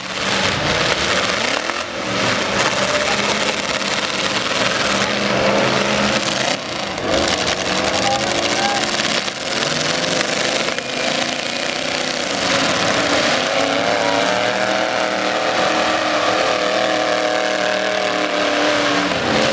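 Engines of several demolition derby trucks running and revving hard together, pitch climbing and falling, with a few short sharp hits among them.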